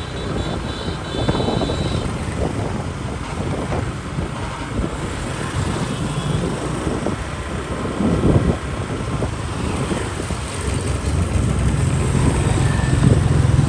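Motorbike traffic heard from a moving motorbike: engines and tyre noise in a continuous din, with wind on the microphone. A low engine drone grows louder about three-quarters of the way through.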